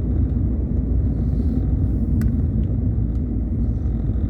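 Car cabin road noise while driving: a steady low rumble of tyres and engine, with a single light click about two seconds in.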